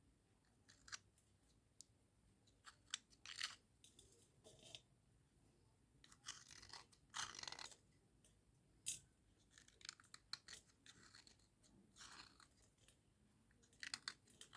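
Dry cubical slate pencils being scraped and rubbed, giving quiet, irregular short scratches, crunches and clicks, a few lasting up to about a second.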